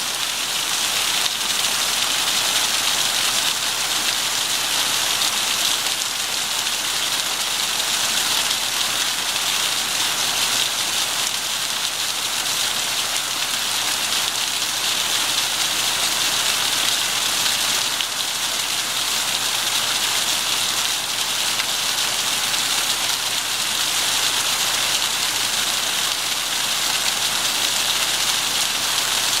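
Waterfall pouring and splashing with a steady, even rush of water.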